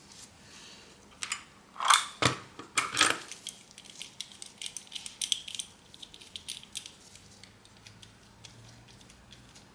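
Small hard tools and parts clinking and clattering on a work surface: a cluster of sharp clicks about two seconds in, then lighter scattered ticks that die away.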